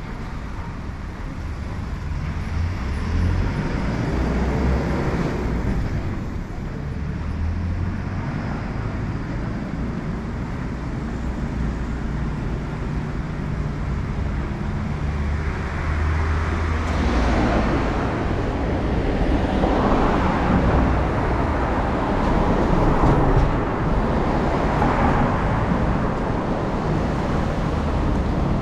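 Road traffic on a city street: motor vehicles going by over a steady low rumble, with swells as they pass, growing louder and busier in the second half.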